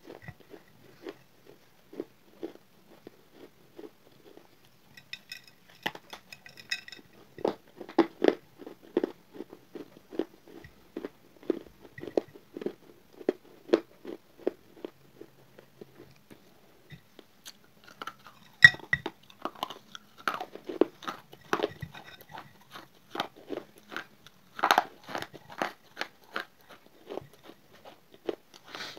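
Close-miked chewing and crunching of dry, crumbly baked clay: a steady run of small crisp crunches, several a second, with a few louder bites about two-thirds of the way through.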